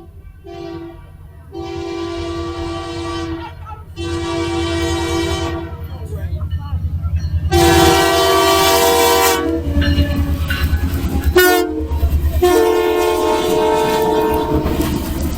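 Locomotive air horn of the CPKC Holiday Train sounding a series of long blasts with one short blast shortly before the last long one, over the low rumble of the passing train.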